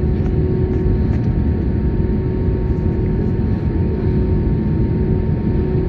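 Inside the cabin of a jet airliner taxiing: the steady low rumble of the engines and rolling gear, with a steady whine on top.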